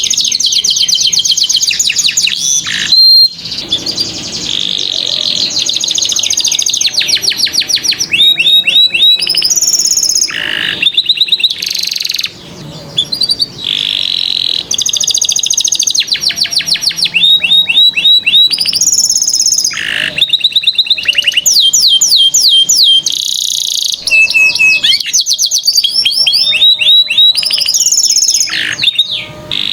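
Domestic canary singing a long, high-pitched song of rapid trills and rolls, fast repeated notes changing from phrase to phrase, with brief pauses about three seconds in and again near twelve seconds.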